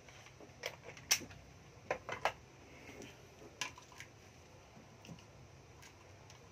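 Hard plastic and metal clicks and knocks of a hammer drill being handled, a scattered string of sharp clicks with the loudest about a second in and three close together around two seconds; the motor is not running.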